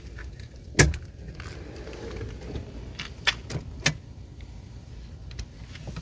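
A few sharp clicks and knocks from handling the car fridge: one loud click about a second in and three more between three and four seconds in, over a low steady rumble.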